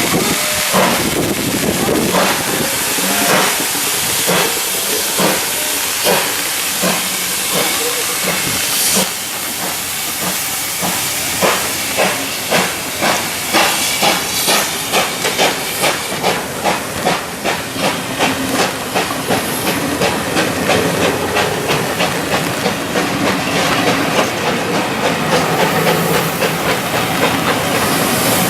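Steam locomotive working hard, with steady steam hiss and a chuffing exhaust beat that quickens from about one to about two beats a second midway, then runs together into a continuous sound.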